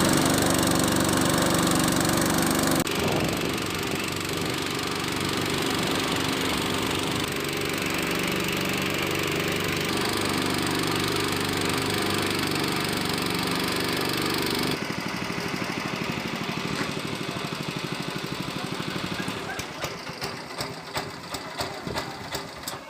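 A small engine running steadily, then dropping to an even pulsing beat about fifteen seconds in, which fades near the end.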